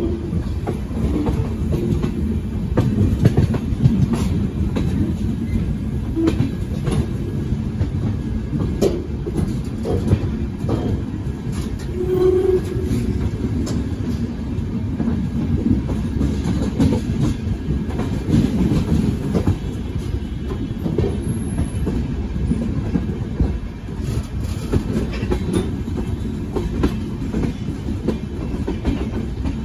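Running noise of a passenger train heard from aboard: a steady low rumble with irregular clicks and clacks as the wheels cross rail joints and crossings.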